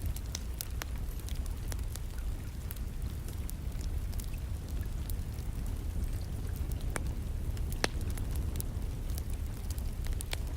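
Wood fire in a fireplace crackling, with scattered sharp pops (one louder about eight seconds in), over a steady low rumble and rain.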